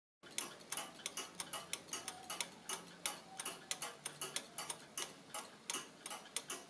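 Verge and crown wheel escapement of an early 18th-century Italian lantern clock ticking steadily, about four ticks a second, set by its short bob pendulum. The escapement is newly reinstated and running.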